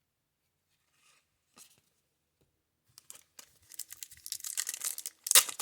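Plastic wrapper of a 1990 Score baseball card pack being torn open and crinkled. It starts about three seconds in, grows louder, and ends in a loud rip.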